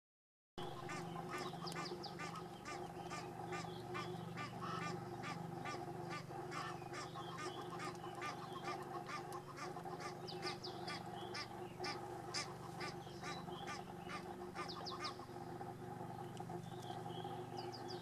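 A bird calling over and over, about three calls a second, which stops about fifteen seconds in. A steady low hum runs underneath.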